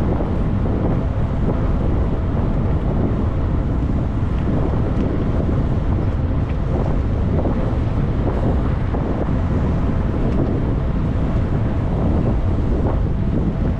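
Steady wind rushing over the microphone of a camera riding along on a moving bicycle, loudest in the low range.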